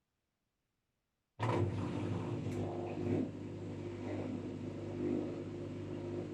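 LG 5 kg washing machine running: a steady motor hum with a noisy mechanical whirr, starting abruptly about a second and a half in.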